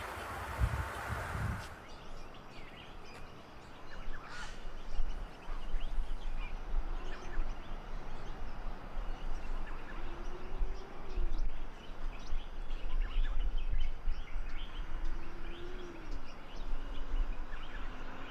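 Birds chirping, many short calls scattered throughout, over a low rumble that comes and goes. A faint low tone rises and falls three times.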